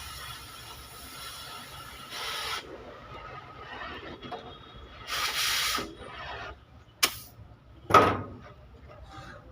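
Two short bursts of hissing, like air jetting from a nozzle, the second longer, then two sharp knocks about a second apart, the second the loudest, during truck body repair work.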